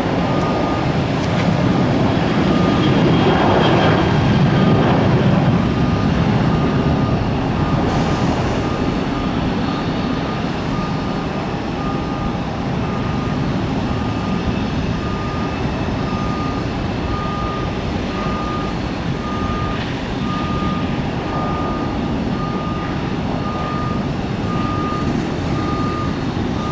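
A vehicle's reversing alarm beeping steadily at one pitch, a little more than once a second, over a low engine rumble that swells a few seconds in.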